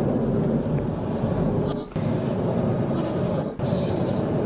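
Steady road and engine noise of a car being driven fast in a police pursuit, dipping briefly twice.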